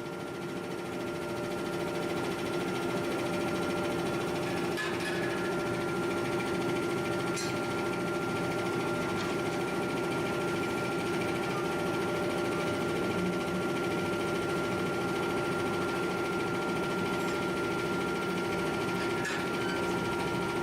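Steady industrial machinery hum in a forge shop: an even drone with a constant low tone and a thin high whine joining about five seconds in, with a few faint clicks.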